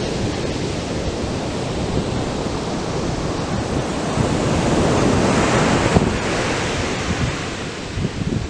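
Atlantic surf breaking and washing up the beach in a steady rush, swelling to its loudest about halfway through as a wave breaks, then easing off. Wind buffets the microphone.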